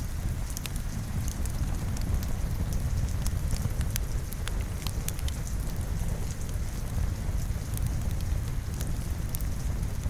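Steady rain, with a low rumble under it, mixed with a wood fire crackling: scattered sharp pops and snaps throughout.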